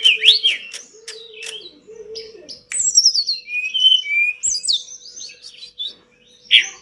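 Tledekan gunung singing a fast, varied song of chirps and rising and falling whistled notes, with a short pause shortly before the end and a loud note after it. A faint low steady hum runs underneath.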